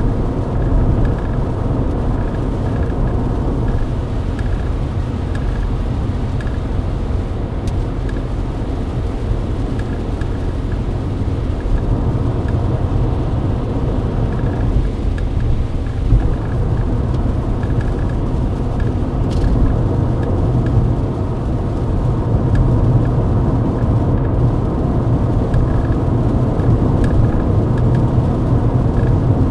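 Steady in-cabin drone of a Mercedes-Benz W124 cruising at highway speed on a wet road: low engine and tyre rumble with road noise, without a break.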